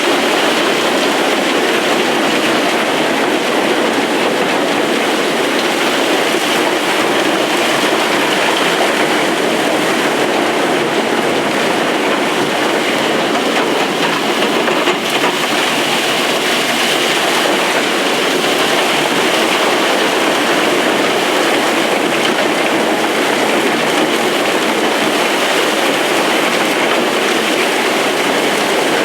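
Opal-mining machinery running loud and steady underground, with the truck-mounted blower revved up to suck dirt out of the mine.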